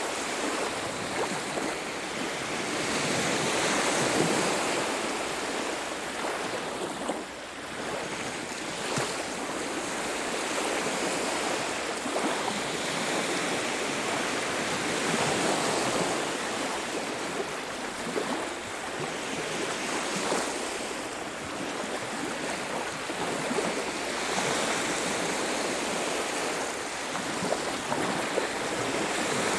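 Ocean surf washing onto a beach, waves breaking and receding in slow swells every few seconds.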